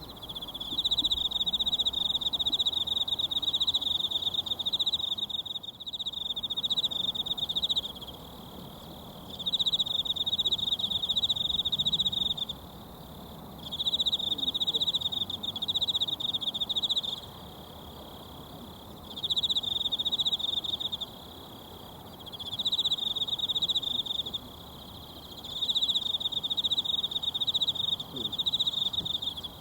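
Mountain stream babbling steadily, with a high, rapidly pulsing insect trill over it that comes in six bouts of a few seconds each, separated by short pauses.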